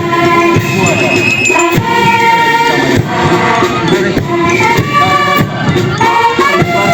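Parade band music: a melody of held notes stepping in pitch over drums and percussion, played loudly.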